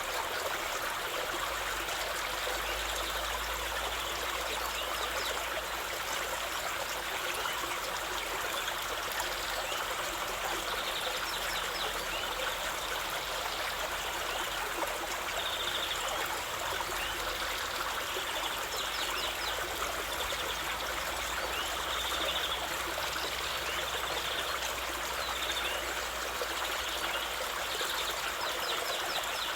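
A stream's water running steadily, an even rushing trickle, with faint short high sounds now and then.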